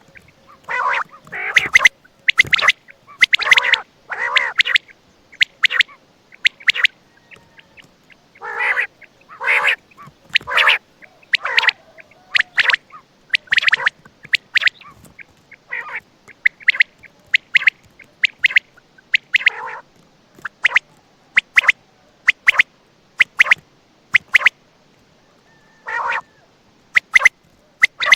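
Quail calling: a long irregular series of short calls. The first half holds harsher, rasping notes, and the later part has quicker, sharp chirps in ones and small clusters.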